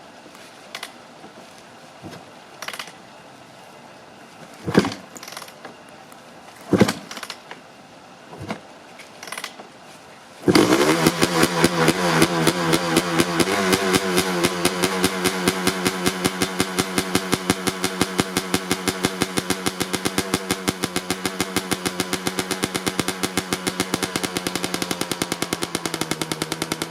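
Honda CR250R two-stroke motocross engine on a cold start: a few scattered clicks and thumps, then the engine catches about ten seconds in and runs with a rapid, even two-stroke pulse, settling a little lower after a few seconds.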